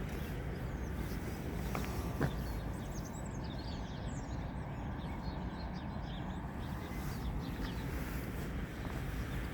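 Outdoor ambience: wind rumbling on the microphone, with small birds chirping from about three to six seconds in and a couple of sharp clicks about two seconds in.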